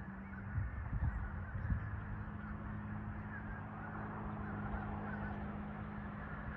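A large flock of birds calling together, a dense continuous chatter of many overlapping calls, over a steady low hum, with a few low thumps in the first two seconds.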